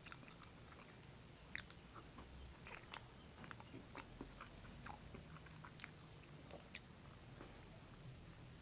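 Faint, close-up chewing and biting of a tuna spread sandwich: irregular small clicks and smacks of the mouth, a few each second.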